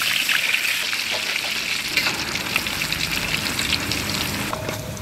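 Small pieces of coconut sizzling as they fry in hot coconut oil, a steady hiss that eases a little toward the end.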